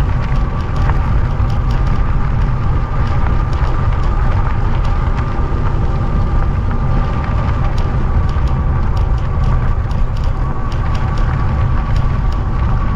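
Riding noise on an e-bike at speed: wind rumbling on the microphone over tyre and road noise, with a faint steady high whine.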